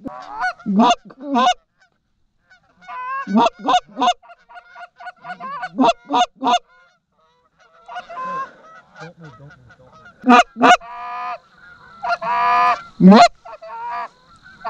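Canada geese honking and clucking: bursts of several short, sharp honks with pauses between them, and one longer drawn honk about two-thirds of the way through.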